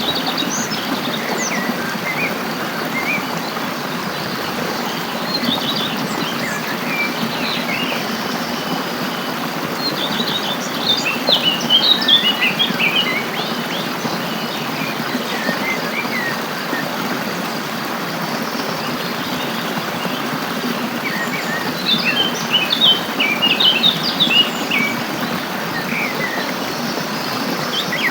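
Birds chirping in quick high twittering bursts over the steady rush of a stream. The chirping is busiest about ten seconds in and again about twenty-two seconds in.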